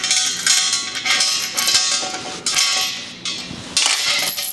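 Steel safety chains rattling and clanging against a welding cart and gas cylinder as they are hooked up, in several bursts with some metallic ringing.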